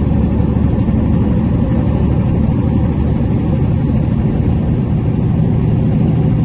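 Heavy truck driving: a steady low rumble of engine and road noise.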